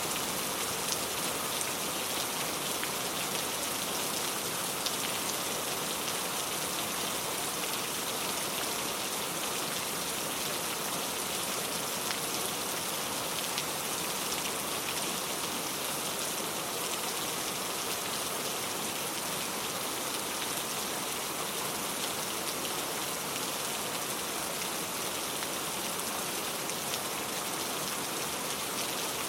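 Steady rain falling and pattering on a surface, an even hiss with small scattered drop ticks.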